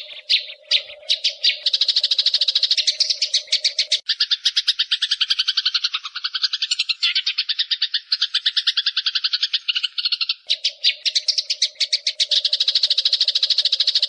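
Eurasian tree sparrows (burung gereja) chattering in a fight: rapid, even trains of sharp chirps, about ten a second, that change in pattern for several seconds in the middle.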